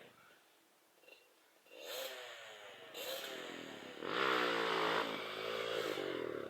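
Trail motorcycle engine revving, starting about two seconds in with its pitch rising and falling in surges. It is loudest over the last two and a half seconds.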